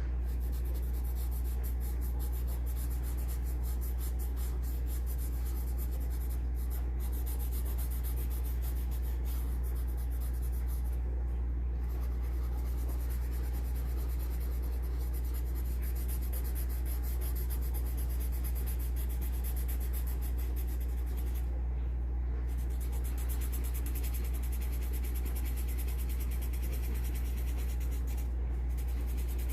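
Graphite pencil scratching on paper in continuous shading strokes, with a few brief pauses where the pencil lifts off. A steady low hum runs underneath.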